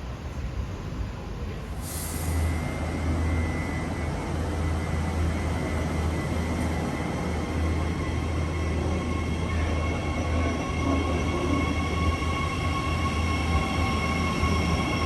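Electric passenger train making a steady low hum, with several steady high-pitched tones held above it from about two seconds in.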